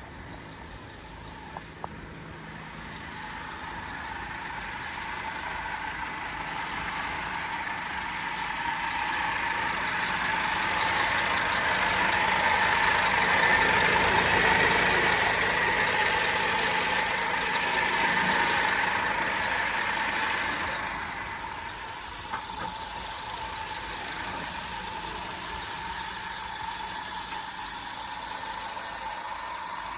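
Scania P230 truck's engine running, growing louder over about ten seconds to a peak, then dropping back to a lower steady level about two-thirds of the way through.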